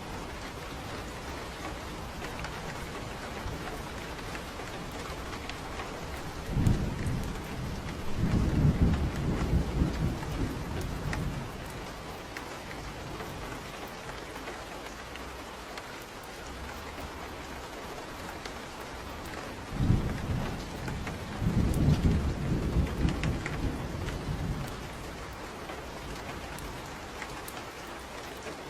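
Steady rain falling, with two long, low rolls of thunder, the first about six seconds in and the second about twenty seconds in, each rumbling for several seconds; a third begins right at the end.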